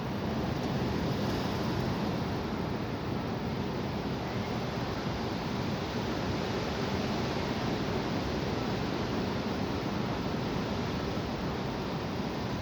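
High wind blowing steadily: a continuous low rushing noise with no distinct gusts or breaks.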